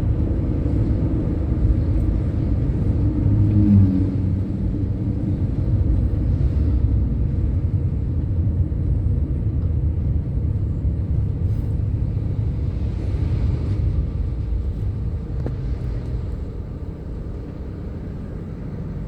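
Scania bus's diesel engine running with a steady low rumble that grows gradually fainter over the last few seconds.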